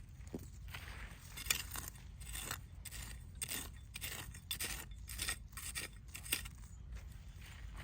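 Digging in garden soil during a potato harvest: a run of short, irregular scrapes with a few sharper clinks, the sharpest about one and a half seconds in and again near the end.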